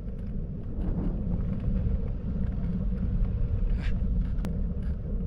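Strong gusty wind buffeting the microphone: a dense low rumble that grows louder about a second in, with a single sharp click about four and a half seconds in.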